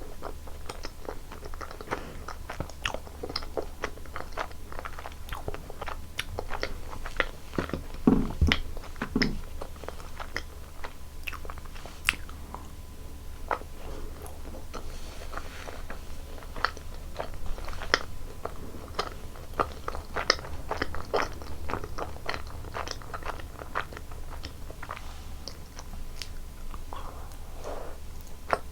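Close-miked eating sounds: a person biting and chewing food, with many small, irregular, sharp clicks and crackles from the mouth and a louder bite about eight seconds in. A faint, steady low hum runs underneath.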